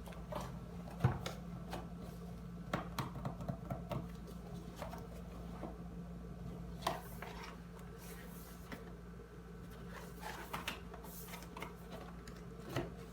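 Scattered small clicks and taps of objects being handled, over a steady low hum.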